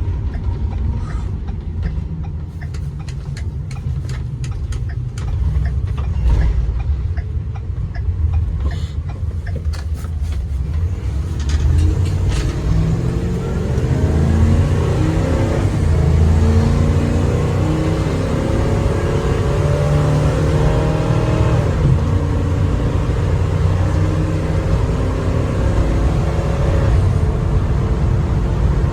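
2016 Ford E350 box truck engine and drivetrain heard from inside the cab: a low rumble with scattered clicks as the truck slows and turns round. From about twelve seconds in it accelerates, the engine note rising steadily, drops at a gear change about twenty-two seconds in, then holds steady at a cruise.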